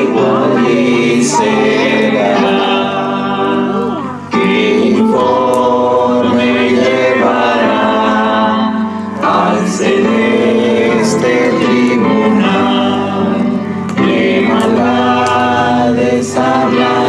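Choir singing a gospel-style Christian hymn over music with sustained low notes.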